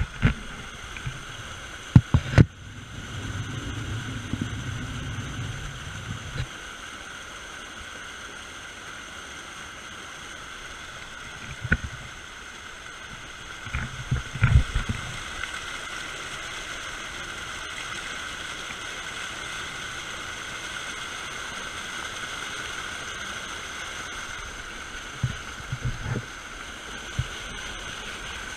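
Steady rush of a waterfall and fast-flowing creek water. A few short, low thumps break in now and then.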